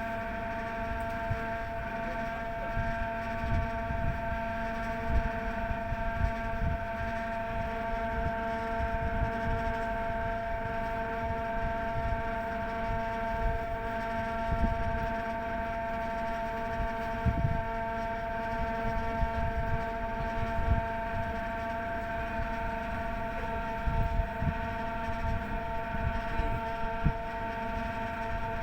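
A ship's machinery running with a steady pitched drone that does not change, with low gusts of wind buffeting the microphone.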